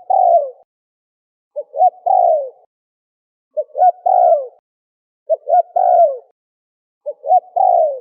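Spotted dove (terkukur) cooing, the same phrase repeating about every second and a half to two seconds. Each phrase is two short notes and then a longer, falling coo.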